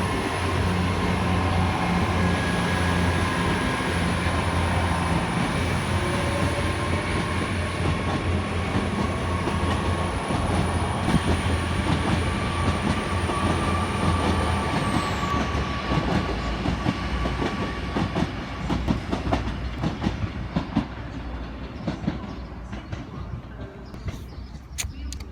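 GWR Intercity Express Train pulling out and passing: a steady low engine drone with a high whine that glides down about 15 seconds in. Then wheels clack over the rail joints as the train draws away and fades.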